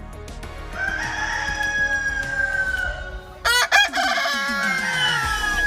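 Rooster crowing. A long drawn-out crow, a short loud call about three and a half seconds in, and a second long crow starting near the end.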